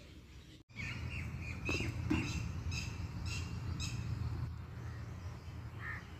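Birds calling: a short chattering call, then a run of about five short, sharp notes at roughly two a second, and one more brief call near the end, over a steady low rumble.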